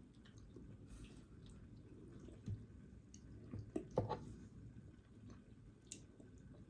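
Faint eating sounds close to the microphone: chewing with a few short, wet mouth smacks and clicks, the loudest about four seconds in.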